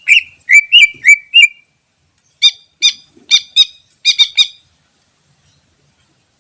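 Green leafbird (cucak ijo) singing: a quick run of about five loud whistled notes with sharp upward flicks, then after a short pause a burst of about seven short, harsher chattering notes, then the bird falls silent.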